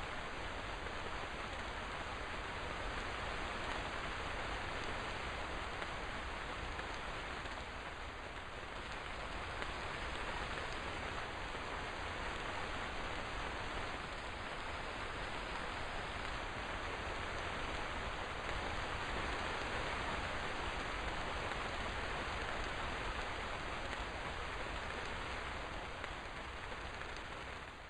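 Steady rain falling, an even dense patter with small swells in strength.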